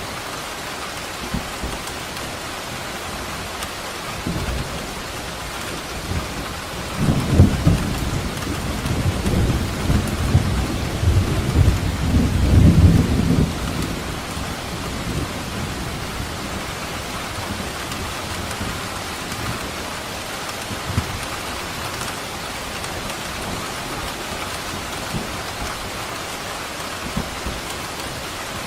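Steady heavy rain falling, with a rumble of thunder rolling in about seven seconds in, building for several seconds and loudest near the middle before fading back to the rain.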